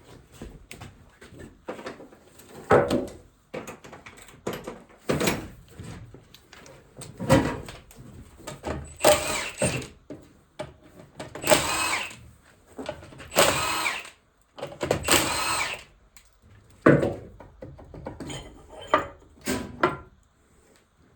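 A power tool run in short bursts of about a second, four times in a row, loosening bolts on an NV4500 transmission case, among scattered clanks and knocks of metal tools and parts.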